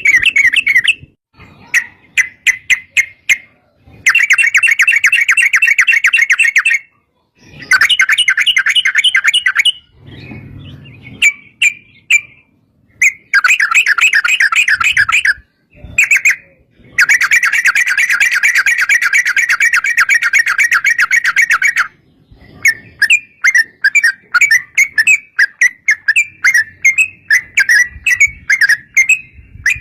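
Yellow-vented bulbuls (trucuk) singing: long rolling songs of fast, repeated bubbling notes, each run lasting several seconds with short breaks. In the last third they give way to a quicker series of separate chirps.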